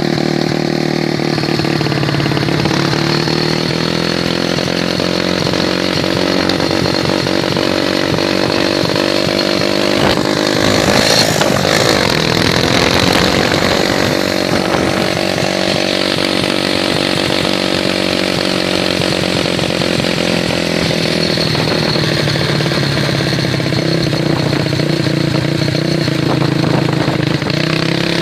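Small single-cylinder Kayak 150 engine running steadily while being broken in, its speed shifting briefly about eleven seconds in before settling again.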